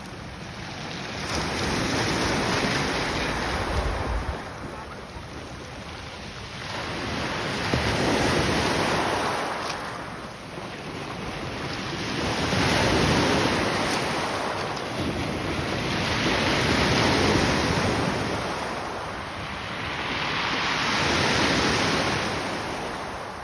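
Sea surf: waves breaking and washing in, the noise swelling and fading about every four to five seconds, with wind buffeting the microphone.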